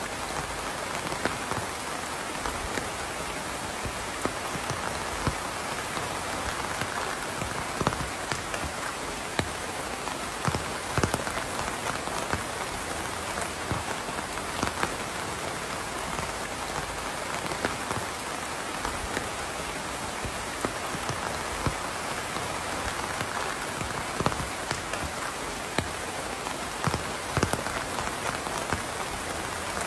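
Steady rain falling on a surface, with louder individual drops landing as sharp taps several times a second.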